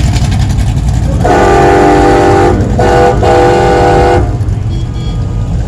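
A multi-tone vehicle horn sounds three blasts, a long one, a brief one and another long one, each a chord of several notes held steady, over the low rumble of passing car engines.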